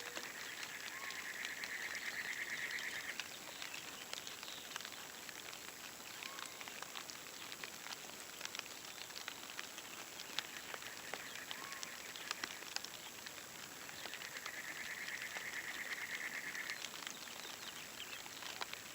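Rain falling, with many sharp individual drops pattering and dripping. A long, even, high trill from a calling animal sounds twice, near the start and again about three-quarters of the way through, with a few faint short chirps between.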